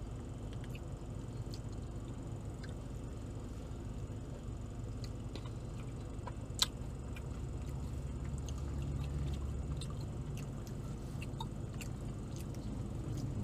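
A person chewing food, with many small mouth clicks scattered through, one sharper click about six and a half seconds in, over a steady low hum.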